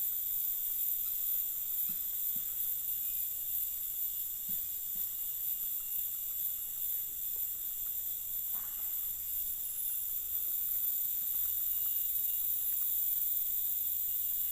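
A steady, high-pitched chorus of insects such as crickets, trilling without a break.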